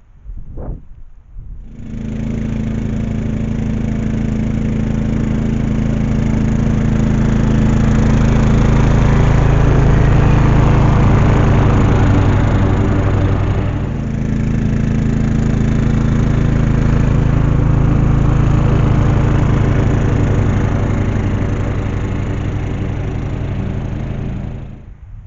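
Westwood ride-on mower's engine running steadily. It starts about two seconds in, grows louder, dips briefly about halfway, swells again and then cuts off abruptly just before the end.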